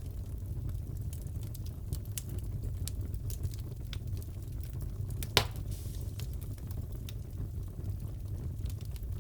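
Crackling fireplace: a steady low rumble of the fire with scattered small crackles, and one sharp pop about five seconds in.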